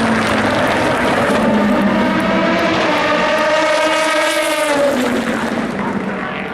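Endurance race car engines at speed on the circuit. One car's engine note climbs and then drops as it passes, about three to five seconds in.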